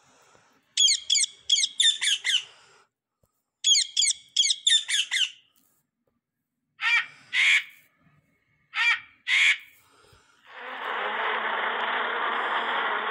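Bird calls: two quick runs of about six short falling calls each, then two pairs of calls. From about ten seconds in, a steady, loud rushing noise takes over.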